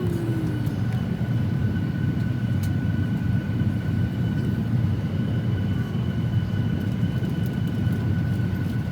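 Steady cabin hum of a parked Boeing 737-800, with the air-conditioning and ventilation running and two thin, even high whines above a low rumble.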